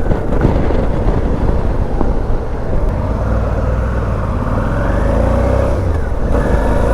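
Suzuki V-Strom 650's V-twin engine running on the move, with wind noise on the microphone. The engine note rises gently through the middle and dips briefly near the end.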